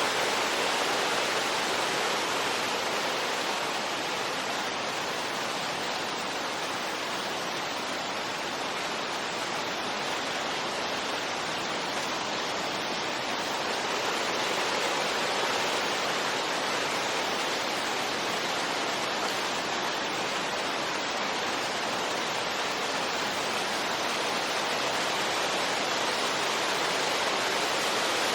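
Steady rushing wind, an even hiss with no gusts or other events, swelling and easing only slightly and slowly.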